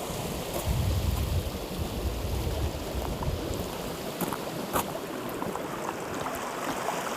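Steady rushing of a flowing river, with wind buffeting the microphone for a couple of seconds near the start and a few faint clicks about four to five seconds in.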